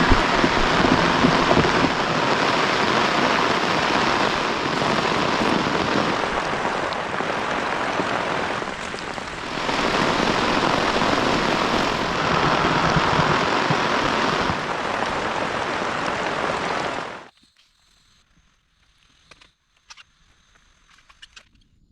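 Heavy rain pouring down steadily, a dense hiss that cuts off abruptly near the end, leaving near silence with a few faint ticks.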